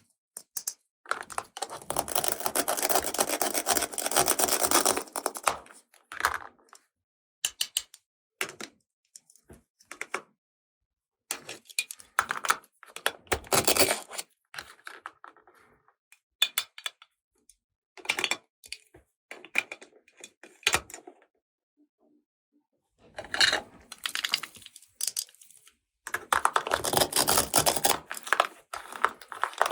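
Plastic toy pieces and packaging being handled, with irregular clicks and taps between longer stretches of rustling, near the start and again near the end.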